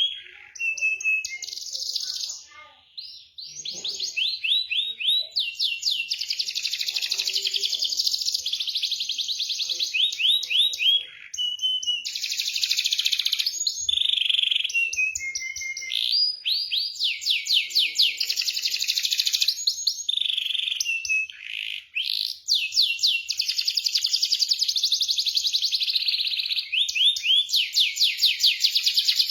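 Canary singing a long, fast song of high trills and rolls, broken by a few short pauses between phrases.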